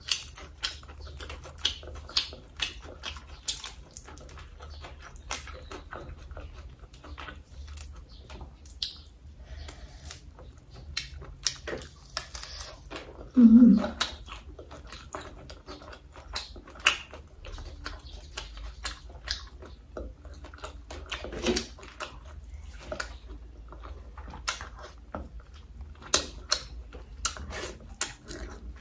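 Close-miked eating sounds: wet chewing and mouth smacking of crab, shrimp and rice, full of sharp clicks, with one louder low mouth sound about halfway through.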